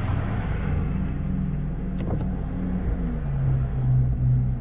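2008 Mazda5 minivan's engine idling steadily while stopped, heard from inside the cabin, with one brief click about two seconds in. The idle note drops slightly about three seconds in.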